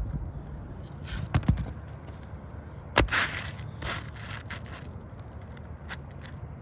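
A few sharp knocks, the clearest about a second and a half apart, amid scraping and rustling.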